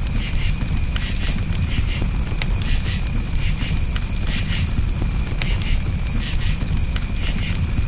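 Campfire crackling with scattered sharp pops over a steady low rumble, while crickets chirp in short, evenly repeated pulses.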